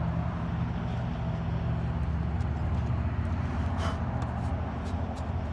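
Engine idling with a steady low hum, and a single light click of metal or plastic about four seconds in.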